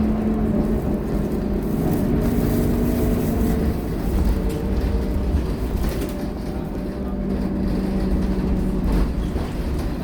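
Scania K230UB city bus under way, its engine and drivetrain running with a steady low hum that drifts slightly in pitch, over road rumble.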